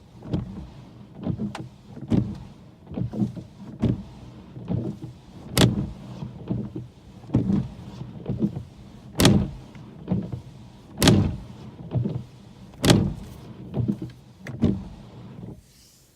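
Car windshield wipers sweeping fast in a steady rhythm, a swish and thunk about once a second, some strokes louder than others. They stop shortly before the end.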